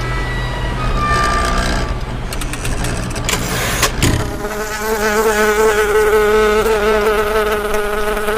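A flying insect's buzz with a slightly wavering pitch, coming in about four seconds in after a brief rush with a few clicks. Before the buzz there is a low rumble.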